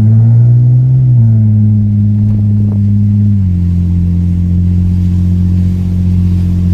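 BMW E36 engine running loud through a muffler-deleted exhaust. It is held at a slightly raised rev that steps down about a second in and again about three and a half seconds in, then holds a steady low drone. No pops are heard.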